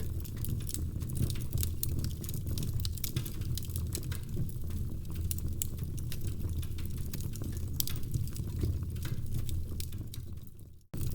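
Wood fire crackling, with many sharp pops and snaps over a steady low rumble of burning logs. Near the end the sound fades and cuts out for an instant before the crackling resumes.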